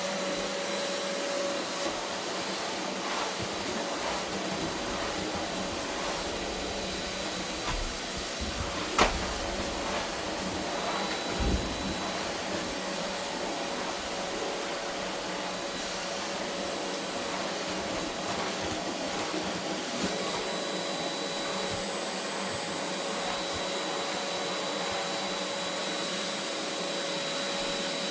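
Vacuum cleaner running steadily on a carpet, with a constant motor whine. A few sharp knocks sound through it, once about a third of the way in and again near the middle.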